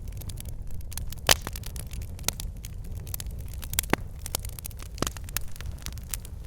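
Wood fire burning in a fireplace, logs crackling and popping: irregular sharp pops over a low steady rumble of the flames, with the loudest pops about a second and about four seconds in.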